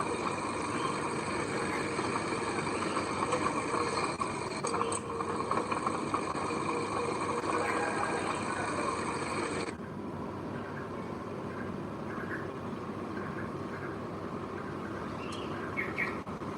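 A heavy machine's engine running steadily. About ten seconds in the sound cuts abruptly to a quieter, duller engine sound.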